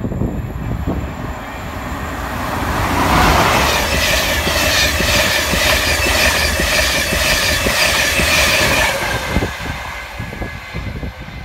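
LNER InterCity 225 electric train, a Class 91 locomotive with Mark 4 coaches, passing close by at speed: rumble and a rapid, even clatter of wheels over rail joints, with a steady high whine over it. It builds over the first few seconds and fades after about nine seconds.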